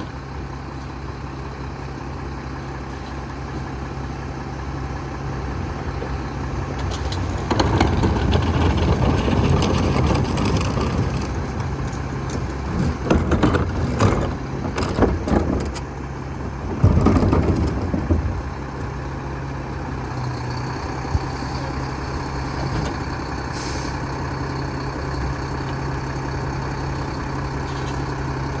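Mack Granite rear-loader garbage truck's diesel engine running steadily. In the middle it gets louder, with a stretch of machinery noise and several loud bangs and clatters. Late on there is a short hiss of air.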